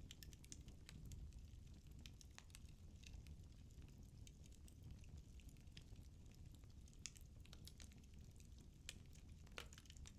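Firewood burning in a fireplace: faint, irregular crackles and pops over a low, steady rumble.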